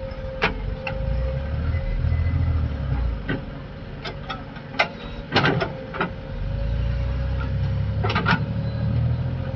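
Heavy diesel machinery running, its engine rumble swelling twice, about a second in and again past the middle, over a steady whine. Sharp metallic clanks and knocks come scattered through.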